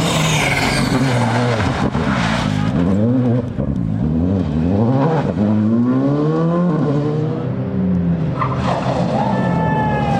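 Rally car engine revving hard, its pitch climbing and dropping repeatedly through gear changes and throttle lifts, with one long climb in the middle. A hiss of tyre noise over the first couple of seconds.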